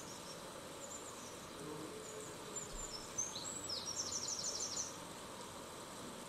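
Faint high-pitched bird chirps: a few short falling notes, then a quick run of repeated notes about four seconds in.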